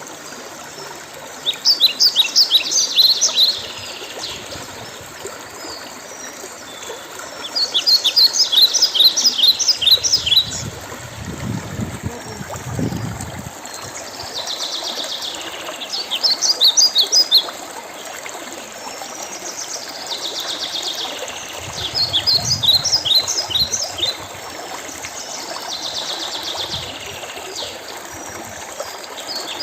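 A songbird singing: repeated phrases of rapid, high chirping notes about two to three seconds long, coming every few seconds with softer phrases between them, over the steady trickle of a running stream.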